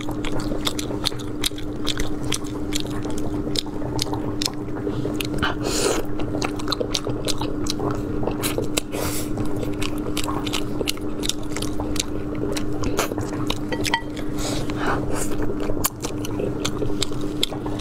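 Close-miked wet chewing and biting of spicy braised meat, with many quick irregular smacks and clicks from the mouth and the sticky sauce. A steady low hum runs underneath.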